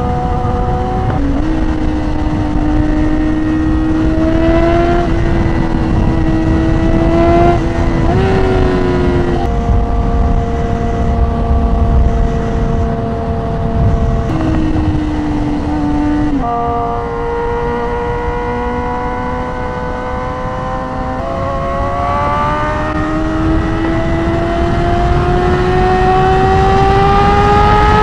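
Yamaha R6 sport bike's inline-four engine running at highway speed, mostly holding a steady pitch with a few steps in pitch, then climbing steadily in a long acceleration over the last several seconds. Heavy wind rumble runs underneath.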